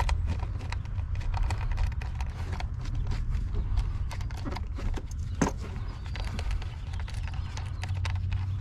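Irregular metallic clicks and clinks of a socket wrench working a spark plug loose from the engine's cylinder head, over a steady low rumble, with one sharper click about five seconds in.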